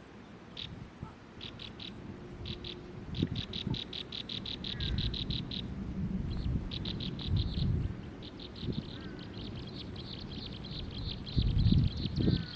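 Nestling birds begging in the nest: quick runs of short, high chirps, several a second, coming in bursts and then almost without a break in the second half. Low rumbling noise, loudest shortly before the end.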